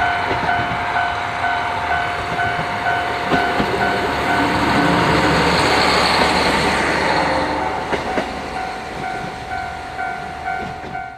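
A train running past, its rumble and wheel clatter growing to a peak about six seconds in and then easing off. Over it, a railway crossing bell rings steadily at about two strokes a second.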